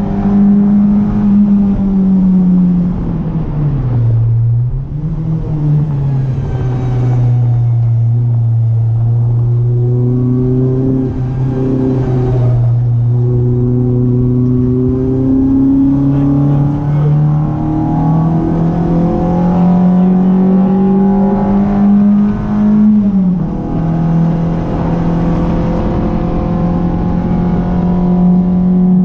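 Renault Clio RS 182's 2.0-litre four-cylinder engine driven hard on a track. Its pitch falls sharply about four seconds in as the car slows, then climbs slowly under acceleration for much of the time. Near the end it dips quickly, as at an upshift, and then holds high.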